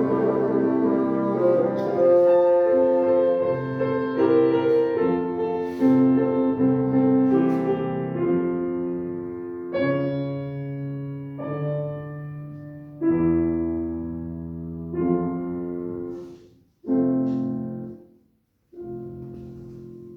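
Piano playing the closing bars of a classical piece: sustained chords that fade, then two short detached final chords near the end before it stops.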